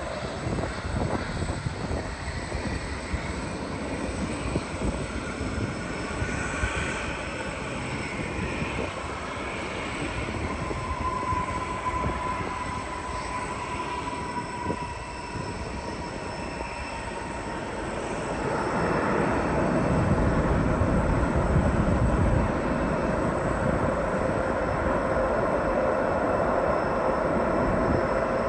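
Jet airliner engines on a landing approach, running steadily. An engine whine falls slowly in pitch in the middle, and the sound grows louder about two-thirds of the way through.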